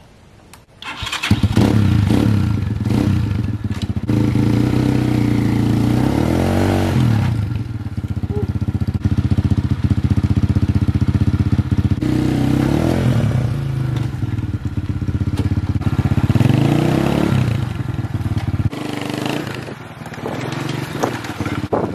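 Apollo 250 Chinese 250cc dirt bike engine running hard, cutting in about a second in, its revs rising and falling again and again as the throttle is blipped.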